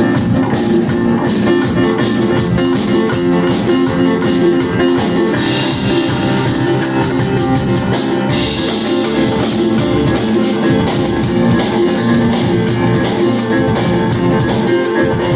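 A rock band playing live, loud and without a break: drum kit and guitars filling out a dense wall of sound.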